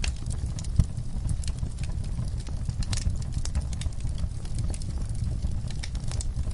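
Wood fire burning in a fireplace: a steady low rumble of flames with irregular crackles and pops from the burning logs, one sharper pop about a second in.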